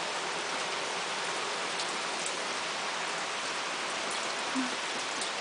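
Steady rain falling and splashing on the ground, a constant hiss with a few sharper drops ticking now and then.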